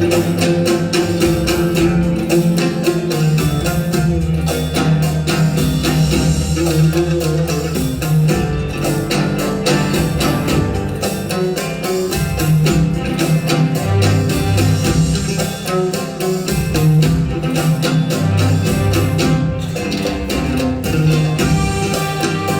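Live instrumental music led by an oud, with plucked melodic lines over steady hand-drum percussion.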